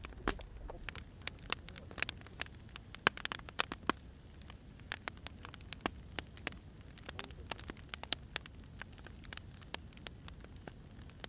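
Firewood burning, with irregular sharp crackles and pops over a low steady rumble.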